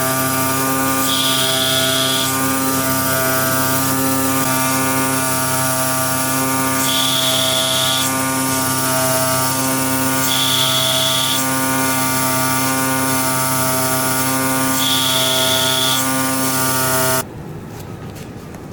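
Digital CNC vibrating-knife cutting machine running with a steady mechanical hum and whine, and a higher tone that comes in for about a second at a time, four times. The machine sound cuts off suddenly near the end, leaving a quieter background.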